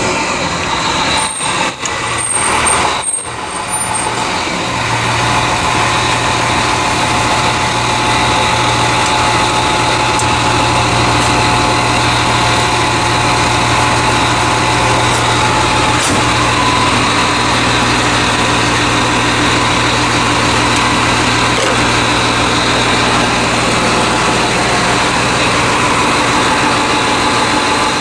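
Steady engine noise of a heavy road vehicle running nearby, with a low hum that sets in about four to five seconds in and holds. A few brief crackles and dropouts come in the first few seconds.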